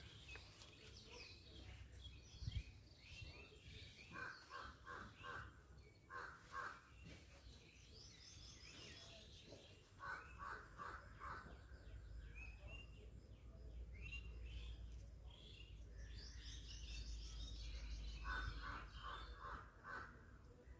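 Faint outdoor birdsong: scattered high chirps and several short runs of four or five quick repeated calls. A low rumble rises through the second half.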